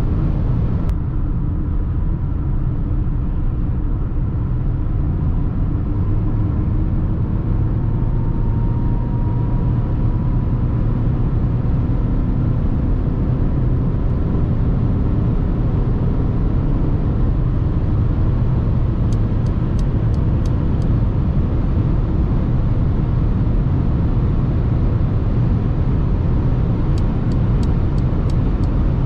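Mercedes GLA 220d 4MATIC driven at speed, heard from the cabin: a steady low rumble of engine, tyre and wind noise, with faint tones rising slowly as it pulls. Two short runs of quick, light ticks come in, about two-thirds of the way through and again near the end.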